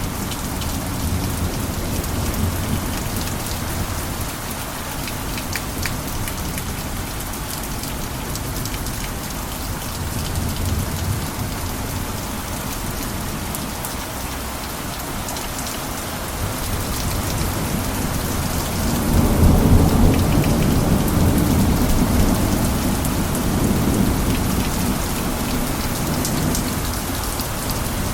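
Steady rain pattering on a cabin roof. About two-thirds of the way in, a low rumble of thunder swells up, peaks, and slowly fades under the rain.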